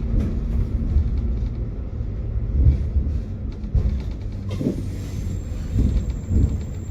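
Tram running on its rails: a steady low rumble with scattered knocks, and a few louder thumps in the second half.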